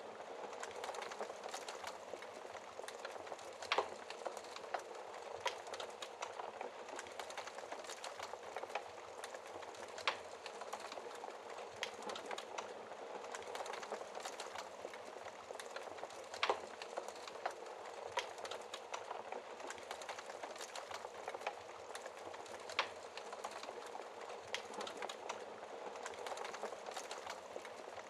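Wood fire crackling in a fireplace: a steady, dense hiss with small ticks all through it and a louder, sharp pop every few seconds.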